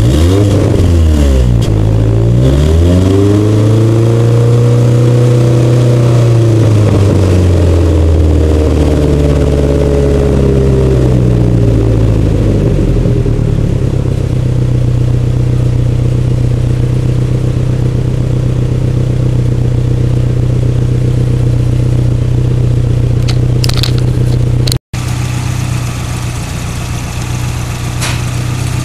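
Fiat 124 Spider's 2-litre twin-cam four-cylinder sounding through an aftermarket header and exhaust with a turbo tube and catalytic converter. It is blipped quickly once, then revved up and let back down slowly twice, then settles to a steady idle. The sound cuts out for an instant near the end.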